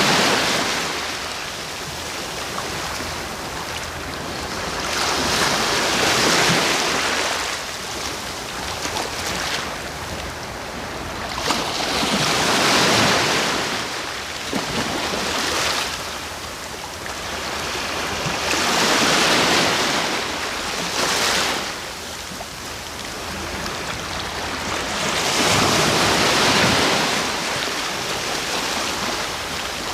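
Sea waves breaking and washing in. Each wave swells and falls away every six seconds or so, over a steady hiss of surf.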